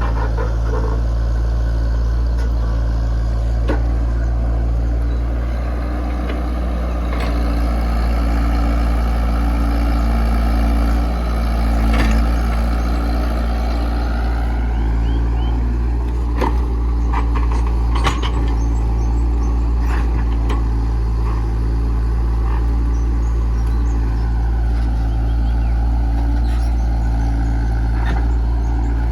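Komatsu PC68 excavator's diesel engine running steadily, with a higher whine that dips and rises as the machine works. A few sharp knocks come about twelve seconds in and again a few seconds later.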